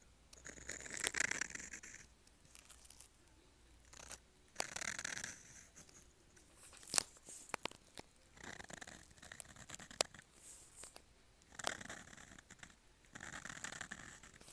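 Dip pen nib scratching across paper in short, irregular strokes with pauses between them, and a few sharp ticks.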